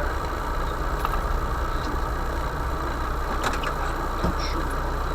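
Motor vehicle engine running steadily, with a few light rattles or clicks, one set about three and a half seconds in.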